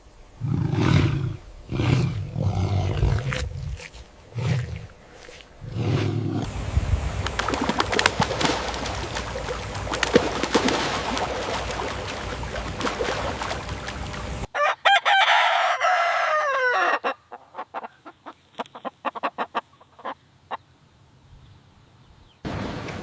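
AI-generated farmyard audio: low grunting bursts, then a steady rushing noise, then a rooster crowing about two-thirds of the way through, its call falling in pitch, followed by scattered sharp clicks.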